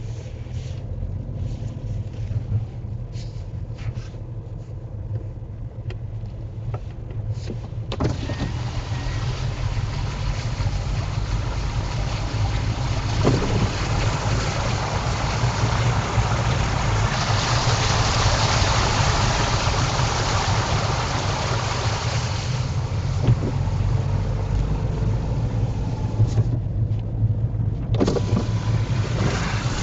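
Car driving through flood water on a road, its tyres sending up a swishing rush of spray over a steady low rumble. The rush builds about a quarter of the way in, is loudest past the middle and fades near the end.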